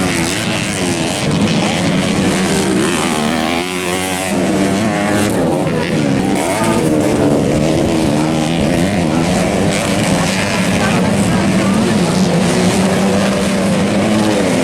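Several dirt-bike engines racing, their pitch rising and falling as the riders rev through the gears and back off.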